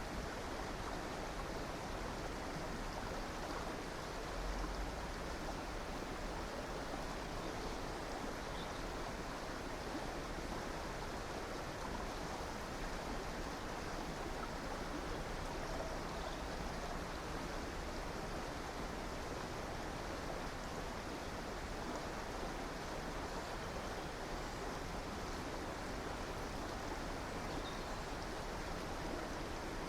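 River water running steadily over rocks, an even rushing flow.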